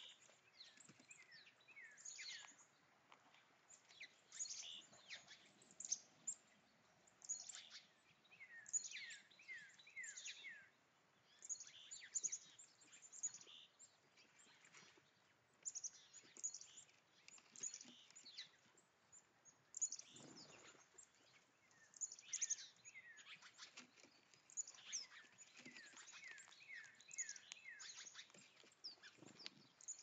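Small songbirds chirping in clusters of quick, high, downward-sweeping notes, coming and going throughout. A brief low thump about twenty seconds in.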